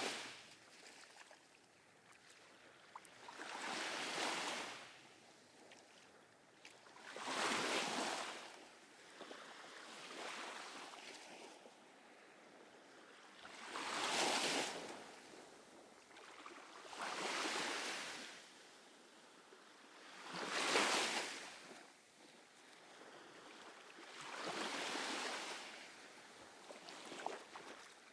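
Small ocean waves breaking and washing up the sand, a swell of surf hiss every three to four seconds. The waves are kept small by a light breeze.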